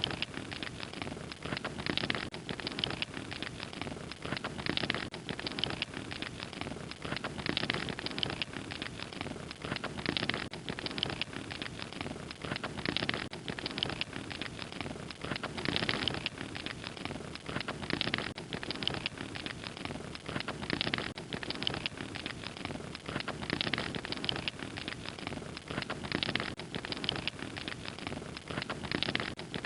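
Wood fire crackling steadily: dense small crackles over a soft hiss, with louder bunches every second or two.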